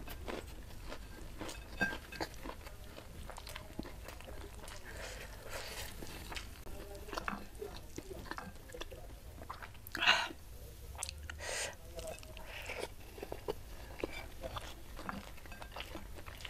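Close-miked chewing and mouth sounds of a person eating rice with fried anchovy sambal by hand: soft, scattered smacks and small crunches, with one louder crunch about ten seconds in.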